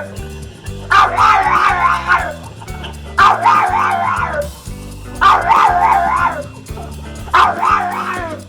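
A dog giving four long, wavering, high-pitched calls about two seconds apart, over background music with steady low chords.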